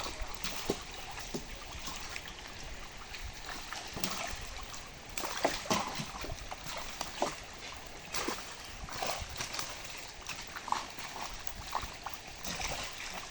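Water splashing and sloshing in short, irregular bursts over a steady trickle.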